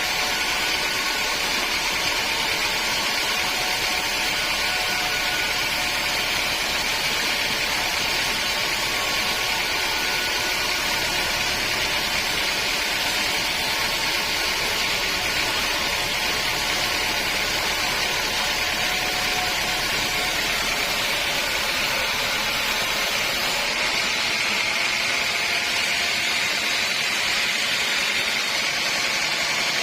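Sawmill saw and machinery running steadily with an even, noisy sound; about three-quarters of the way through the sound changes, losing some of its low rumble.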